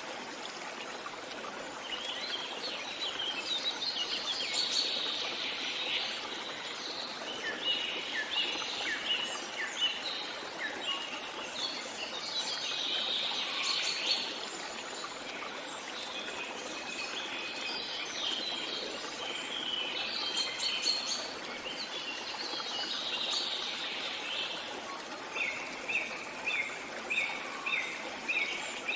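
Several birds singing and chirping over the steady rush of a stream. Near the end one bird repeats a short note about twice a second.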